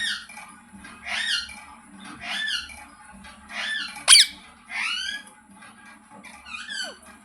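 Green Indian ringneck parrot giving a run of short, chirping calls about once a second, with one sharp, much louder shriek about four seconds in.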